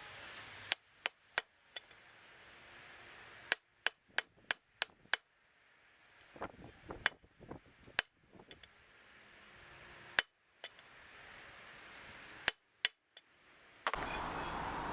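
Hammer striking steel in quick groups of sharp, ringing taps, about twenty in all. Near the end a steady noise comes in.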